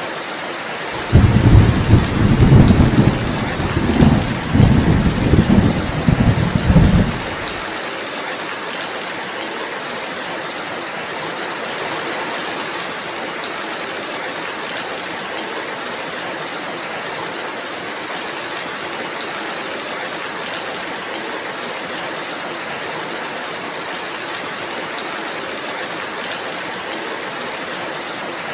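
Steady rain falling, with a low roll of thunder that starts about a second in and rumbles in several swells for about six seconds before dying away.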